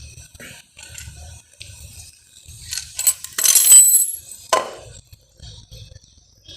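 Metal parts and tools being handled during engine reassembly: a stretch of clinking and scraping about three seconds in, then a sharp metallic clink about a second later.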